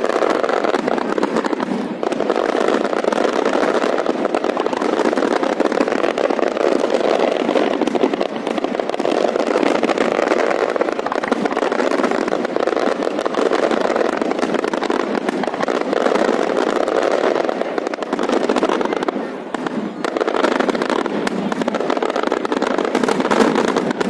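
Fireworks display: a dense, continuous barrage of bangs and crackling, easing briefly about nineteen seconds in.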